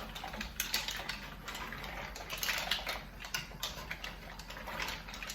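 Pot of mussels simmering in tomato sauce, with irregular crackling and popping clicks.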